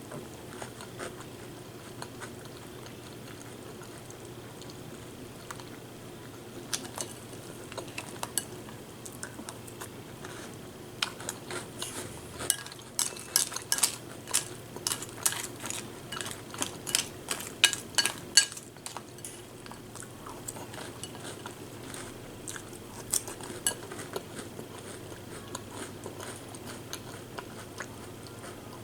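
A spoon clinking and scraping against a cereal bowl, with a quick run of clinks in the middle and a few single clicks before and after.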